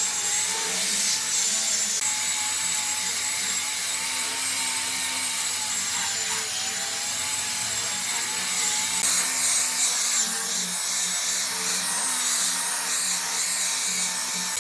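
A power tool running steadily on wood, its high motor whine wavering slightly as the load changes.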